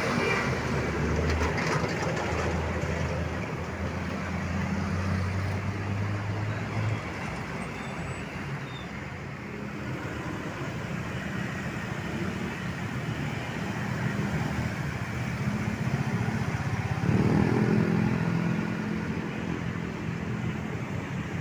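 Road traffic dominated by passing heavy vehicles, trucks and buses, their engines running. A low engine hum stops about seven seconds in, and a louder engine comes in about seventeen seconds in as another heavy vehicle arrives.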